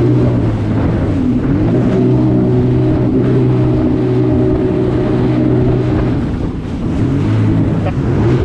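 Jet ski engine running at speed with a steady drone, its pitch dipping briefly twice as the throttle eases, over a rushing noise of wind and water.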